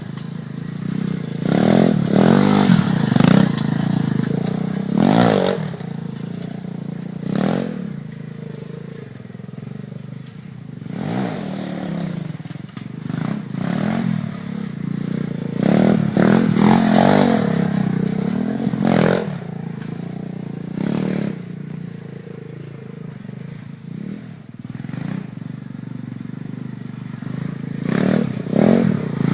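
Small off-road motorbike engine revving up and falling back over and over as it is ridden, with clattering knocks mixed in.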